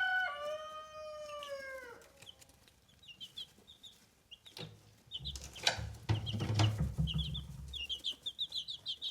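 A rooster crows, the call falling away and ending about two seconds in, while chicks peep over and over in high short notes. From about five to eight seconds in there is a low rumble with a couple of sharp knocks.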